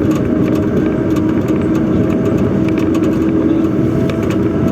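Truck engine running steadily while driving, with road noise and a steady drone.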